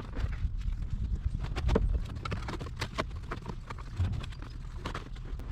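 Irregular clicks and knocks, a few each second, over a low rumble: hand work on a car's stripped floor during carpet removal.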